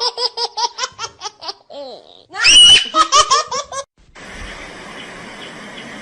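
A young child or baby laughing in quick bursts of giggles, breaking into a loud high squeal of laughter midway. From about four seconds in, the laughter gives way to a steady faint hiss.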